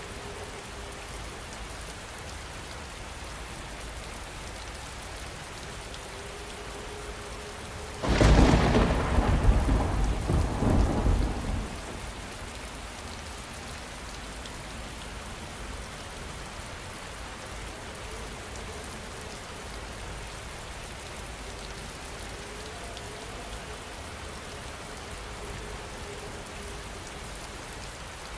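Steady heavy rain, with a sudden loud crack of thunder about eight seconds in that rumbles for about four seconds before fading back into the rain.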